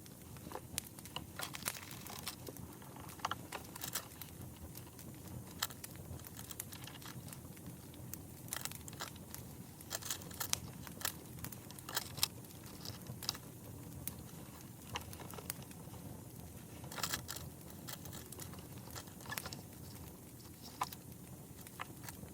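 Wood fire crackling: a steady low rush of flames with irregular sharp pops and snaps, a small cluster of them about seventeen seconds in.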